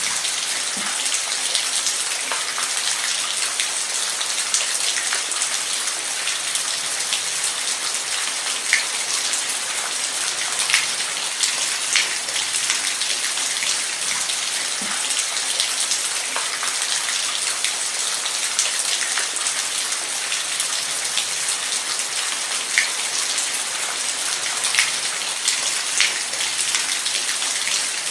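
Steady rain falling, with a dense even hiss and scattered louder individual drops striking close by.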